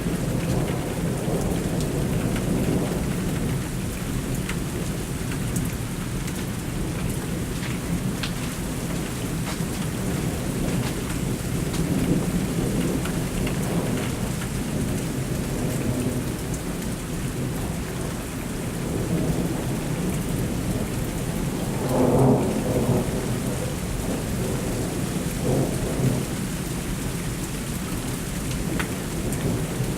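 Thunderstorm: steady rain with thunder rolling almost without pause, swelling to a louder rumble a little after twenty seconds in and again briefly a few seconds later.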